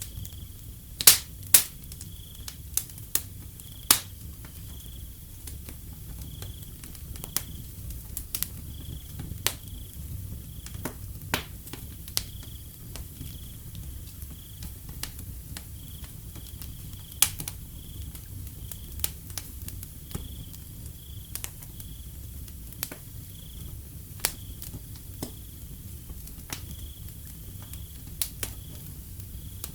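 Wood fire crackling with sharp, irregular pops, the loudest pair a little after a second in, over a steady low rumble. A cricket chirps at one high pitch throughout, about once or twice a second.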